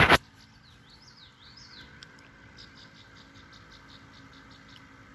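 A loud, brief rubbing bump from a finger handling the phone's microphone at the very start, then quiet outdoor air with a songbird singing: a few swooping whistles, then a quick run of short high notes.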